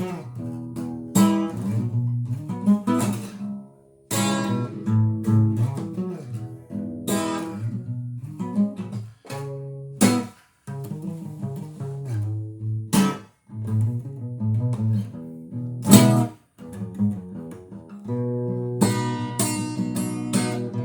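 Acoustic guitar playing a strummed, blues-style introduction, chords struck and left ringing with short pauses between phrases.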